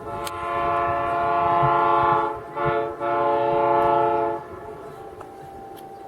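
Locomotive air horn sounding three blasts, long, short, long, a chord of several steady notes, cutting off about four and a half seconds in.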